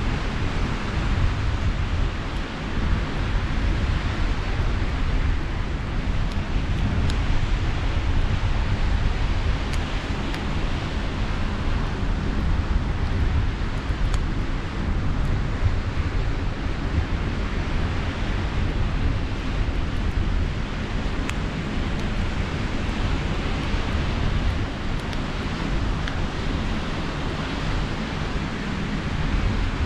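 Steady sea surf and wind, with a heavy low rumble of wind buffeting the microphone. A few faint crackles from a campfire come through now and then.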